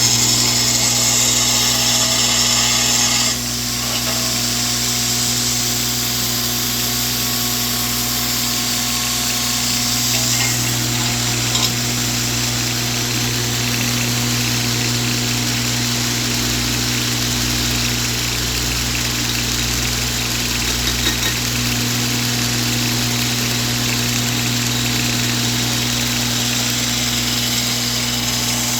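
Homemade 2x72 belt grinder running, its motor humming steadily and the belt running over the skateboard-wheel rollers. It is a little louder and brighter for the first three seconds or so, then holds steady.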